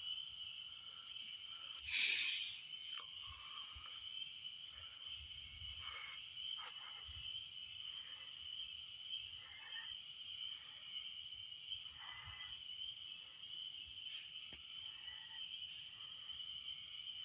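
A steady, high-pitched night insect chorus, with a brief louder noise about two seconds in.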